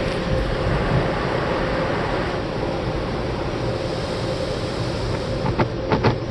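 Automatic tunnel car wash equipment running: a steady rush of water spray and machinery with a constant hum. A series of sharp knocks and taps begins near the end.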